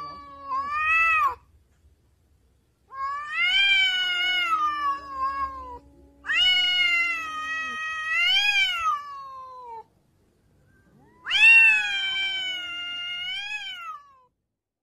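Cat yowling in long, drawn-out wailing calls that rise and fall in pitch: a short call just after the start, then three long ones of about three seconds each, with short pauses between.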